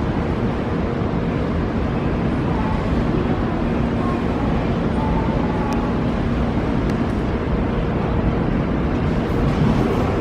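Nankai electric train running in the station: a steady rumble with a faint motor hum.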